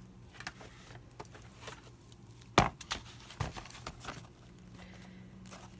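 Folded paper pages being handled and shuffled, with one sharp knock about two and a half seconds in and a few lighter taps.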